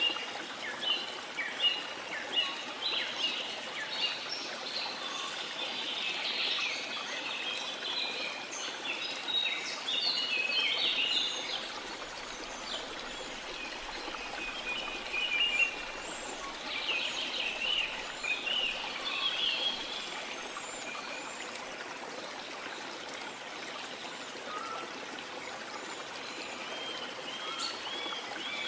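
Steady rush of falling water from a waterfall, with many birds chirping and trilling over it; the birdsong is busiest in the first two-thirds and thins out later, with a run of quick repeated chirps near the end.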